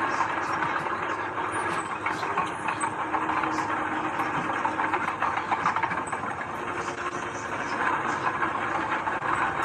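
Heavy diesel earthmoving machinery running steadily under load, a continuous engine noise with a dense clattering.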